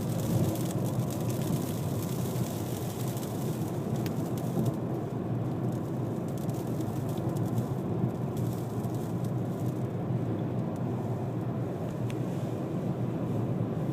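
Car driving through a sandstorm: steady road and wind noise heard from inside the cabin, with fine ticking and hiss of blowing sand against the car that thins out about five seconds in.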